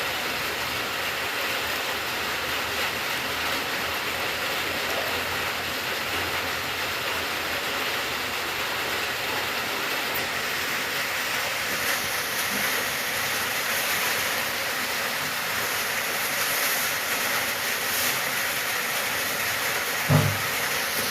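Steady rain falling, an even hiss with no break. Near the end a single brief low thump stands out.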